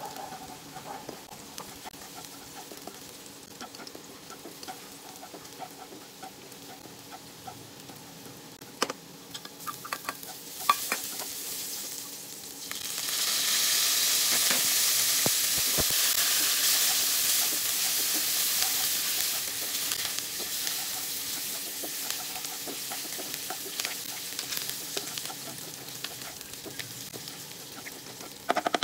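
Chopped garlic sizzling in oil in a nonstick wok, stirred with a spatula, with a few scrapes and taps. About 13 seconds in, julienned ginger and green leaves go into the pan and the sizzle jumps to a loud hiss that slowly dies down.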